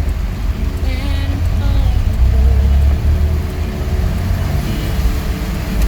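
Steady low rumble of a car's engine and tyres heard from inside the moving vehicle, with a radio playing faintly underneath.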